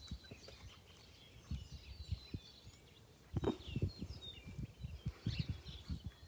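Faint bird chirping throughout, with scattered low thumps and bumps, the loudest about halfway through.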